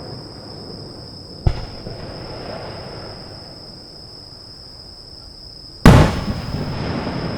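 Aerial fireworks shells bursting: a sharp bang about a second and a half in, then a much louder bang near the end, each followed by a rolling echo. Insects trill steadily underneath.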